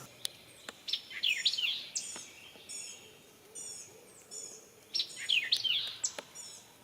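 A songbird singing two short runs of quick, high, falling chirps, about three and a half seconds apart, with a few faint clicks between them.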